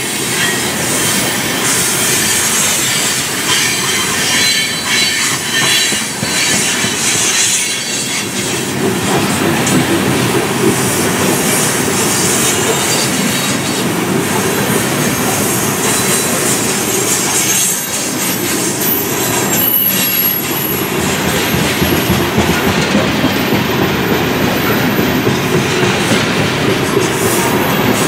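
Freight train cars rolling past: a steady clatter of wheels over the rails, with high-pitched wheel squeal.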